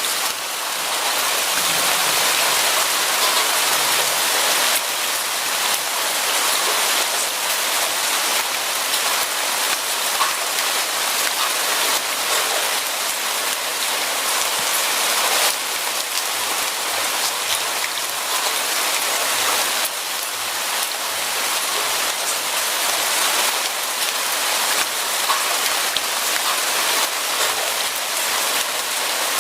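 Steady rain falling: an even hiss of dense rainfall, with small drop ticks scattered through it.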